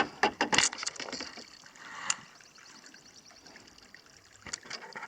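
Spring water trickling and splashing as it runs into a lake, with a cluster of sharp clicks in the first second and a few more near the end.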